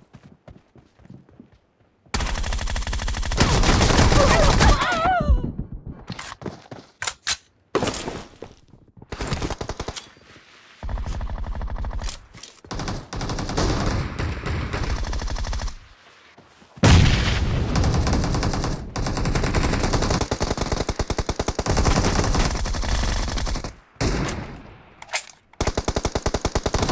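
Video-game automatic gunfire: long bursts of rapid shots starting about two seconds in, broken by a few short pauses.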